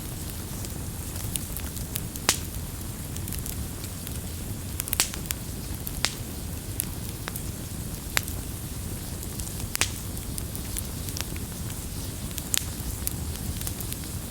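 Wood campfire crackling: a steady low rumble of flames, with sharp pops and snaps every second or so.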